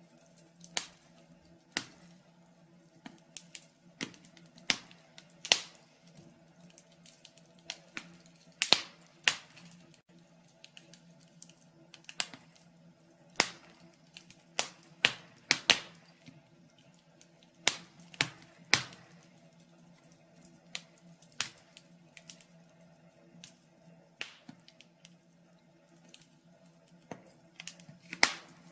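Wood fire in a fireplace crackling: irregular sharp pops and snaps, a few every couple of seconds, over a faint steady low hum.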